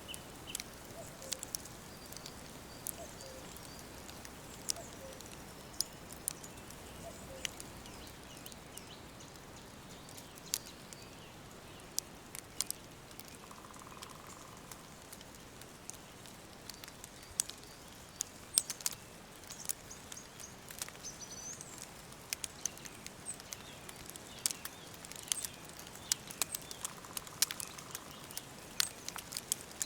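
Wood fire crackling, with sharp pops scattered irregularly over a steady hiss and coming thicker near the end. Occasional faint bird chirps sound in the background.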